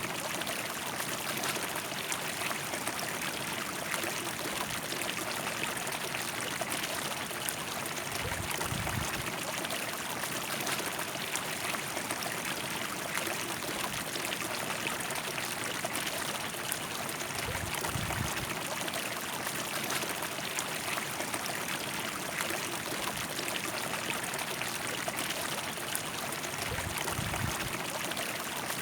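A river flowing steadily, its water rushing and trickling without a break. A short, soft low rumble comes about every nine seconds.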